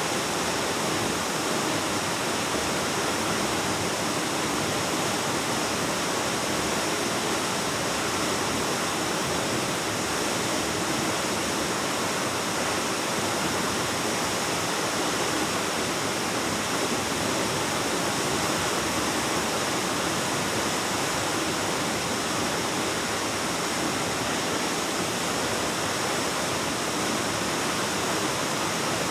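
Waterfall pouring steadily, a constant even rush of water echoing in a cave.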